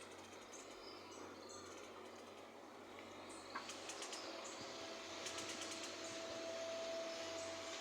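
Faint rustling and light clicks from a hen shifting and settling in a straw nesting basket. About four seconds in, a faint steady tone comes in and holds to the end.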